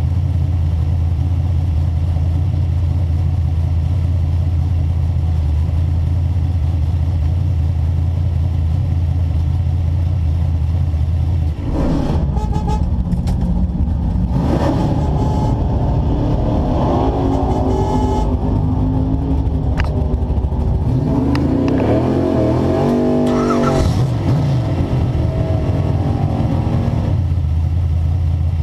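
Drag race car's engine heard from inside the cockpit, idling with a loud, steady low rumble. About twelve seconds in it turns uneven, with several revs rising and falling in pitch as the car rolls forward, and it settles back to a steady idle near the end.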